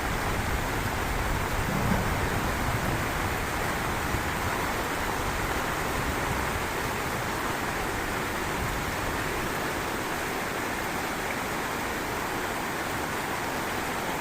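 Heavy rain falling steadily in an even hiss, with a low rumble of thunder in the first few seconds, strongest about two seconds in.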